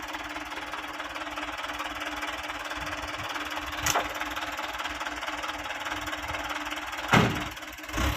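Diesel engine of a small dump truck running steadily with a fast, even clatter. There is a short knock about four seconds in and a heavier thud near the end.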